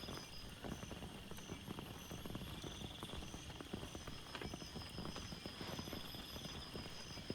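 Rain falling as many separate drops hitting close by, with insects calling in evenly repeated short pulses high above it.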